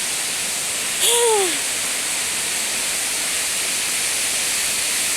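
Steady rushing of a waterfall. About a second in, a short falling vocal exclamation sounds over it.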